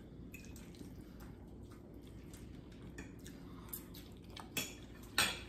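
Wet chewing and mouth clicks of someone eating spaghetti with meat sauce, with a couple of sharper clicks near the end.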